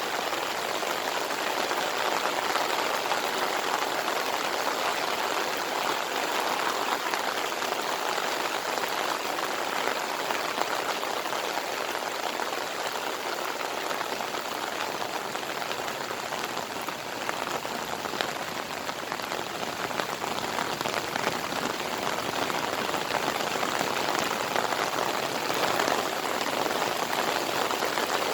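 Steady heavy monsoon rain pouring, drops pattering on surfaces in a constant dense hiss.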